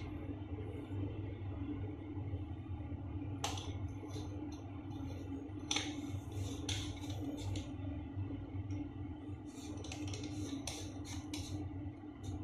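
Scattered light clicks and clinks of small hard parts being handled during a basin diverter repair, one about three seconds in and a cluster near the end, over a steady low hum.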